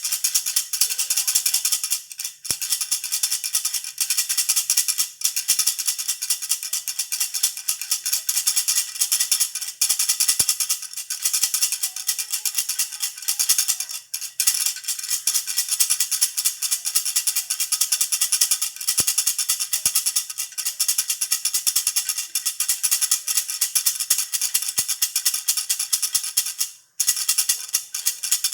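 Baby's jhunjhuna rattle toy being shaken continuously: a fast, dense, high rattle with a few brief breaks, the longest one near the end.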